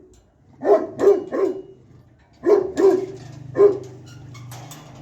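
Dog barking in short runs: three quick barks about a second in, two more a little later, and a single bark near the end.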